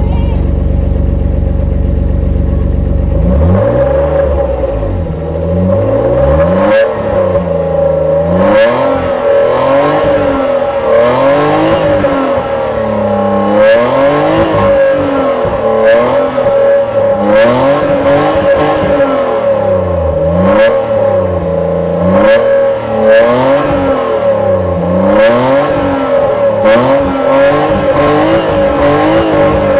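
BMW E34 M5 straight-six engine and exhaust idling for a few seconds, then revved up and let fall back again and again, about once every two seconds. A steady whine runs underneath.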